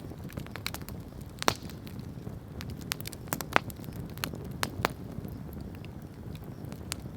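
Campfire crackling, with irregular sharp pops over a steady low rumble of burning. The loudest snaps come about one and a half and three and a half seconds in.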